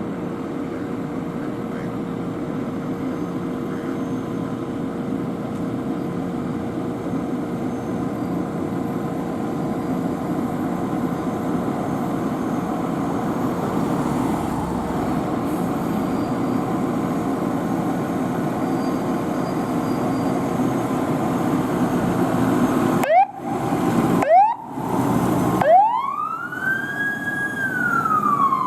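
Steady rumble of a fire engine's running engine. About 23 seconds in, two short siren chirps sound, then the siren winds up to a high wail and slowly winds back down as the fire engine moves off on a call.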